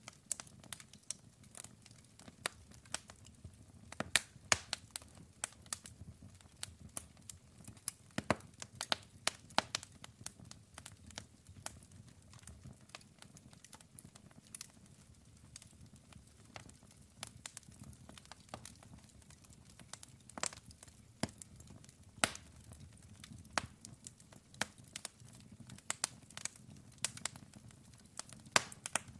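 Wood campfire crackling: dense, irregular sharp pops and snaps, a few much louder than the rest, over a faint steady low rush.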